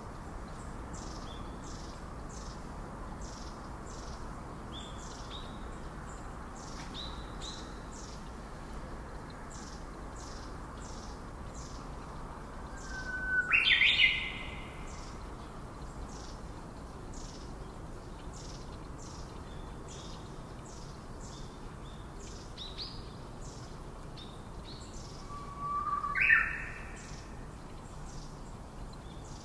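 Birds calling in rainforest: a high, short note repeated about one and a half times a second throughout, and twice a louder call that starts on a short lower note and sweeps sharply up in pitch, about twelve seconds apart. A steady hiss lies underneath.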